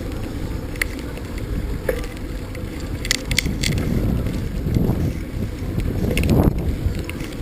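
Wind buffeting the microphone with a steady low rumble, as when riding; a few sharp clicks about three seconds in and a louder gust near the end.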